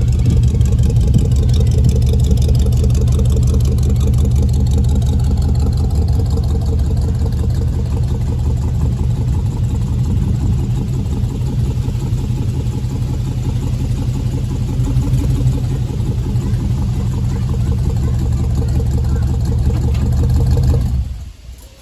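Vehicle engine running loudly and steadily, cutting off abruptly near the end.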